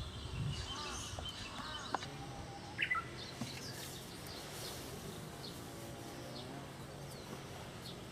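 Birds chirping and calling in short scattered notes, over a steady low background hum.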